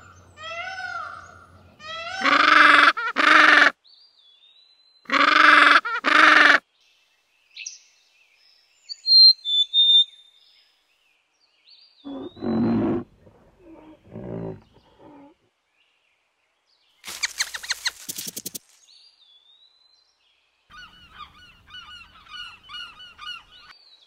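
Indian peafowl (peacock) calling: several loud, harsh honking calls in the first seven seconds. These are followed by quieter, scattered animal sounds: high chirps, a few low calls, a quick run of clicks and twittering near the end.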